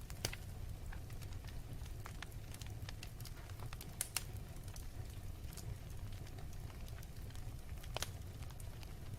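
Fire burning with scattered crackles and pops over a steady low rumble; the sharpest pops come about a quarter second in, around four seconds in and near eight seconds.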